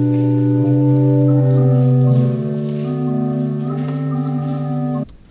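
Organ music: sustained chords in several parts over a held bass note. The bass drops out and the upper voices move about two seconds in, and the music cuts off sharply about five seconds in.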